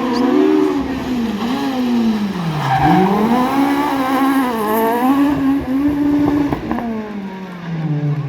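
Rally car engine at full competition revs, its pitch climbing and dropping with gear changes and lifts. It dips deep about three seconds in, pulls back up, then falls steadily away near the end.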